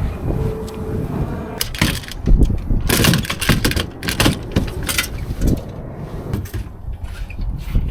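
Wind buffeting the microphone while sailing a small dinghy, with several louder rushes and knocks.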